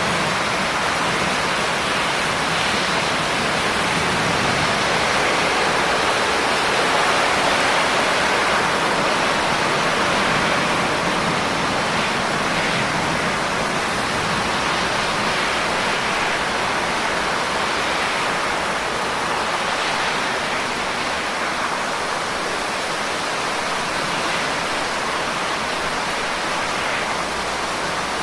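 Steady rain falling, an even, unbroken hiss of drops that holds level throughout.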